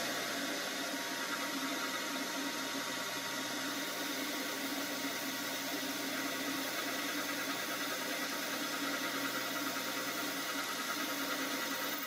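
Metal lathe running steadily, its motor and gearing giving an even hum with a faint fixed whine, during light boring cuts on a bearing end cover's seal register.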